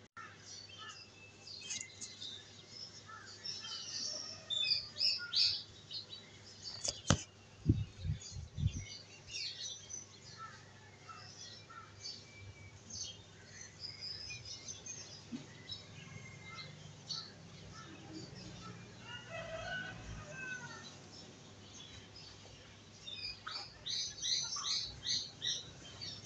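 Birds chirping: many short high calls and quick whistles, thickest near the start and near the end. A sharp click and a few low knocks come about seven to nine seconds in.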